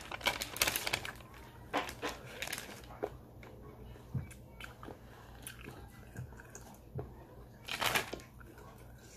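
Paper chicken bag crinkling in the first second, then biting and chewing of sauce-glazed fried chicken: scattered crunches and wet mouth clicks, with a louder burst of noise about eight seconds in.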